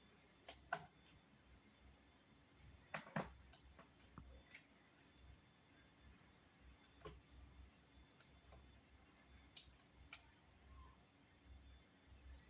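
Crickets trilling steadily at a high pitch, with a few sharp clicks; two louder clicks come just under a second in and about three seconds in.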